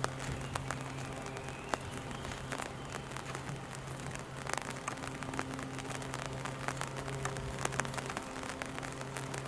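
Steady rain falling, with irregular drops tapping close by, over a constant low hum.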